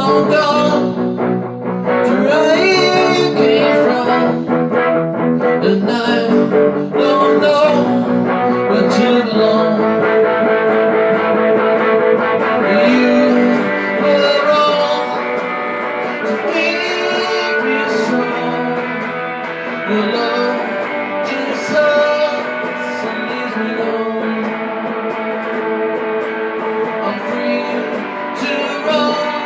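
Guitar music: an instrumental passage between sung lines of a song cover, with sustained plucked and strummed notes.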